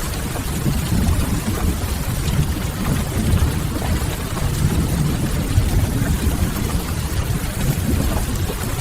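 Steady rain-and-fireplace ambience: an even hiss of rain with a heavy low rumble beneath it and faint, scattered crackles of burning firewood.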